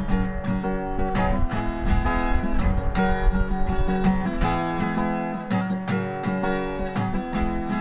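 Background song in an instrumental stretch: strummed acoustic guitar with no singing.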